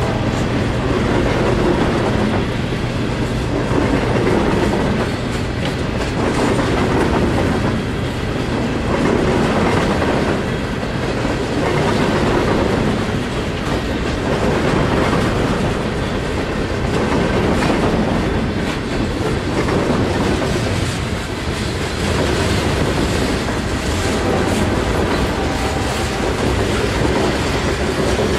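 Freight train cars rolling past, wheels clicking over rail joints, the sound swelling and fading every couple of seconds as the cars go by.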